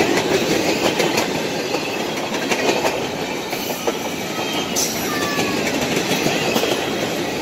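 Freight cars rolling past: a steady rumble of steel wheels on rail, with repeated clacks as the wheels cross the rail joints.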